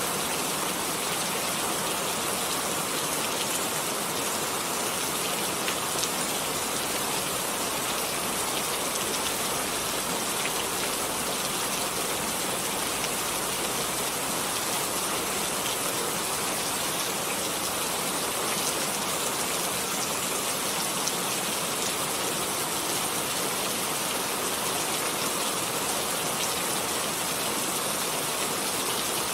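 Steady rain falling, a dense even hiss with the patter of individual drops hitting a surface.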